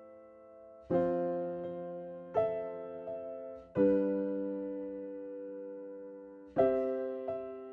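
Slow, gentle piano music: chords struck every one to three seconds, each left to ring and slowly fade.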